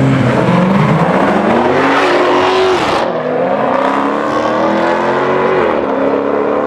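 A car engine accelerating hard: its pitch climbs, drops sharply about three seconds in, climbs again and drops once more near the end, like upshifts through the gears on a hard run.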